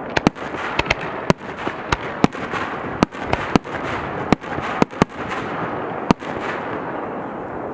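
Fireworks going off: a run of sharp bangs at irregular intervals, at times two or three a second, over a continuous noisy hiss. The bangs stop about six seconds in.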